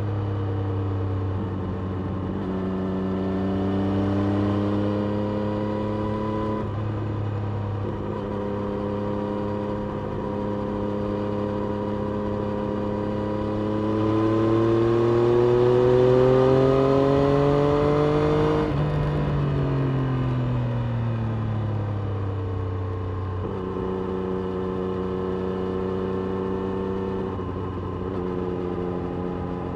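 Triumph Street Triple RS 765 inline-three engine heard from on the bike, riding at moderate revs with several gear changes. The pitch climbs steadily for about five seconds past the middle as it accelerates, then falls away sharply as the throttle closes, before stepping back up near the end.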